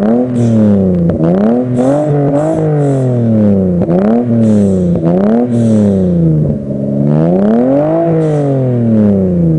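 GAZ-3110 Volga's ZMZ-402 four-cylinder petrol engine being revved: several quick blips up and back down, then a slower, longer rise about seven seconds in that falls away near the end.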